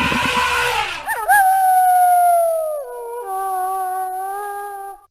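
Wolf howl: a long, steady high note that slides down to a lower held note and stops shortly before the end. It follows the fading end of a horse's whinny in the first second.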